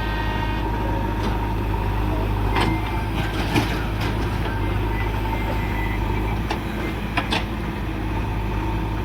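Heavy diesel machinery engine running steadily under load, with a few sharp knocks about three and a half and seven seconds in.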